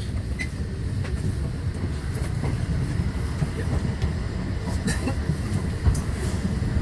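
Passenger train running on the track, heard from inside the carriage: a steady low rumble with a few scattered clicks from the wheels over rail joints.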